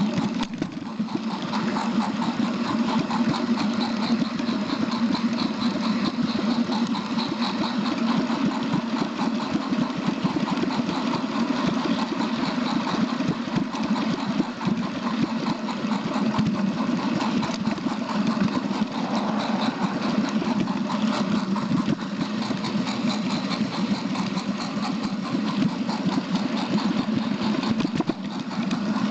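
A train's engine running steadily, with a fast, even pulse.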